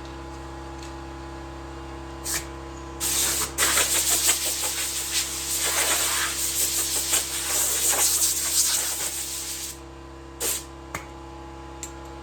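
Compressed air hissing in bursts: a short one, then a long one lasting about seven seconds, then two short ones, over a steady hum.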